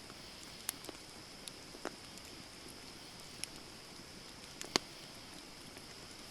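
Burning campfire wood crackling: a handful of sharp, scattered pops, the loudest a little under five seconds in, over a steady high hiss.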